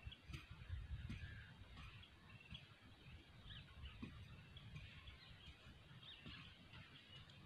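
Near silence outdoors: faint, scattered bird chirps over a low, uneven rumble.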